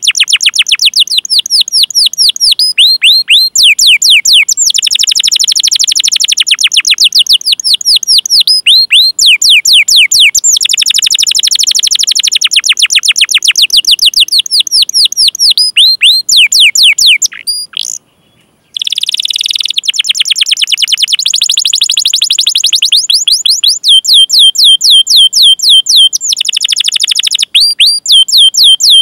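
Domestic canary singing: long rolling trills of rapid, repeated down-slurred chirps, in phrases of a few seconds, with a brief silent break about eighteen seconds in.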